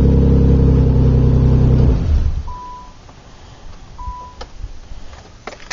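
Car engine idling steadily, then switched off about two seconds in; the owner feels the exhaust needs a little more to quiet it down. Two short beeps of a warning chime follow, a second and a half apart.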